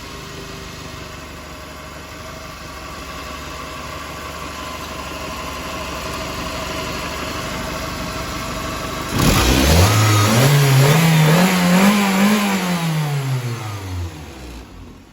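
Warmed-up Toyota 3S-FE 2.0-litre inline-four running steadily at idle. About nine seconds in it is sharply revved, its pitch climbing for a few seconds, then it falls back and winds down to a stop near the end.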